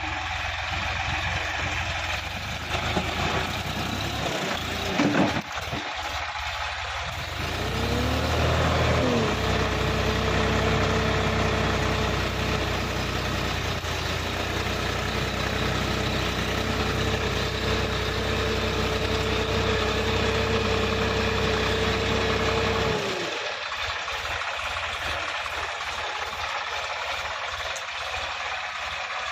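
Sonalika 50 RX tractor's diesel engine running. About eight seconds in it picks up speed and is held there steadily, then the low rumble drops away about 23 seconds in, with a loud knock a few seconds before the rise.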